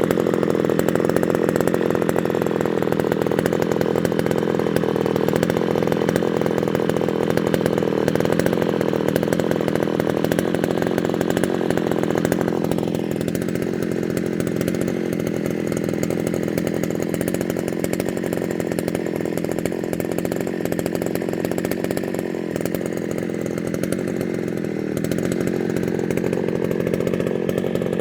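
Chainsaw running continuously, cutting felled wood into firewood. About halfway through, the higher part of its sound drops away, and it rises again near the end.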